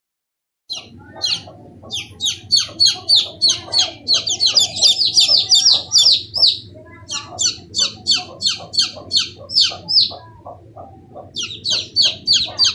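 A brood of baby chicks peeping, short high chirps repeating several times a second, starting just under a second in, with a brief lull near the end. A steady low hum runs underneath.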